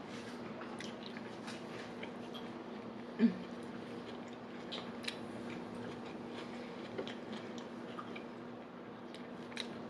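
Close-miked chewing and small wet mouth clicks of a person eating a sub sandwich, over a steady low hum. One brief, much louder low sound about three seconds in.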